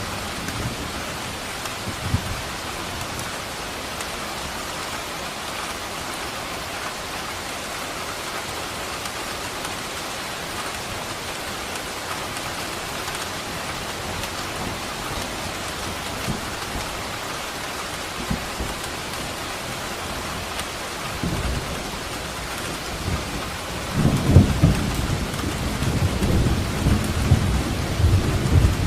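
Steady heavy rain, with thunder rumbling low in the background. A loud, long roll of thunder builds near the end.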